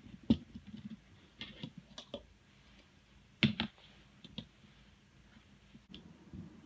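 Scattered clicks and light knocks of small parts of an airsoft electric gun's gearbox being handled and fitted, the loudest two close together about three and a half seconds in.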